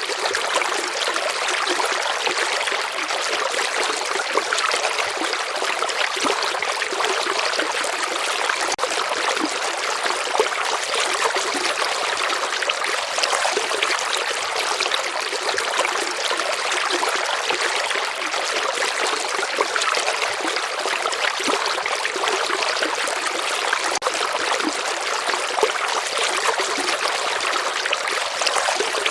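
Gently flowing stream, a steady trickling and burbling of shallow water.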